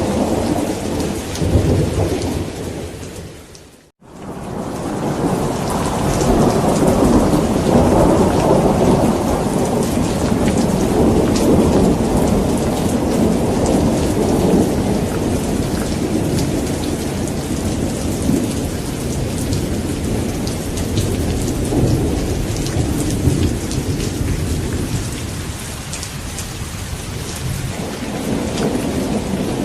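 Steady heavy rain with deep rolling thunder rumbling underneath. About four seconds in, the whole sound fades quickly to silence and then swells back up over a couple of seconds.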